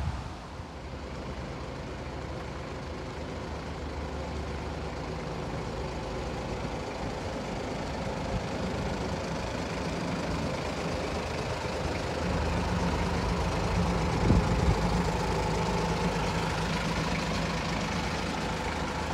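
Diesel engine of a North Bay Railway miniature locomotive running steadily, slowly growing louder, with a single knock about three-quarters of the way through.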